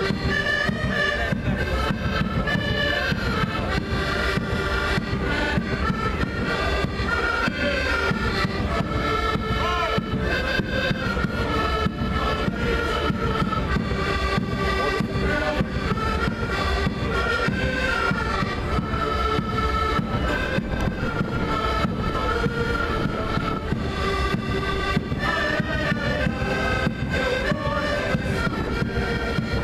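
Live traditional Portuguese folk music played by an ensemble: melody instruments, with a reedy sound like accordion or bagpipe, over a continuous steady beat.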